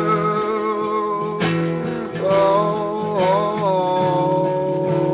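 Acoustic guitar strummed, with a long held sung note over it that dips in pitch about three seconds in.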